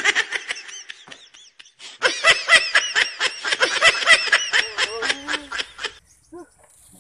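High-pitched cackling laughter in quick pulses, in two bouts: a short one at the start and a longer, louder one from about two seconds in, stopping about six seconds in.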